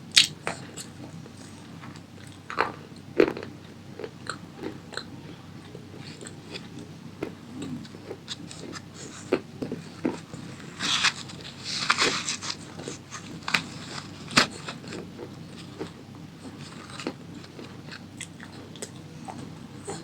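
A person chewing a crunchy tomato pasta snack in big mouthfuls, with many sharp crunches and a loud spell of dense crunching about halfway through.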